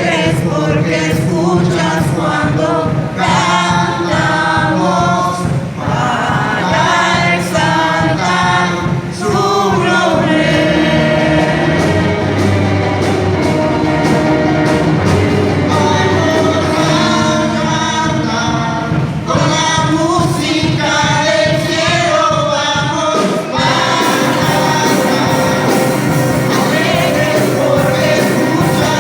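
Christian worship song: several voices singing together over instrumental accompaniment, the music getting fuller and brighter about three-quarters of the way through.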